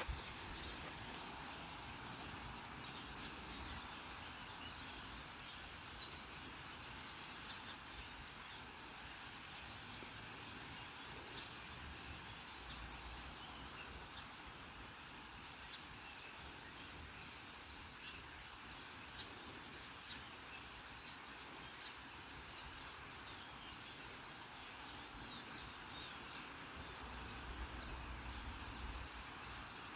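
Faint, steady chatter of a large flock of birds gathered in trees, many calls blending into one continuous din.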